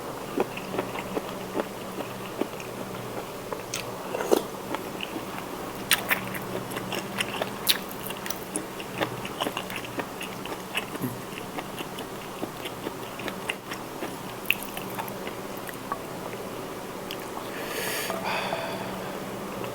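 Close-miked eating sounds from a bowl of spicy seafood instant noodles: chewing and mouth smacking with many small, irregular wet clicks, and a louder, longer noisy stretch near the end. A steady low hum runs underneath.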